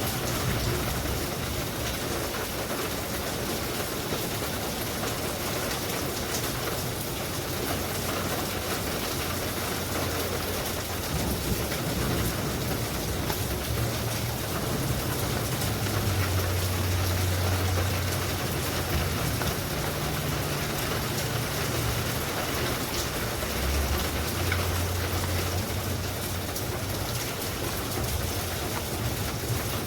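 Steady rain falling and pattering on surfaces, with a low rumble underneath that swells and fades, strongest around the middle.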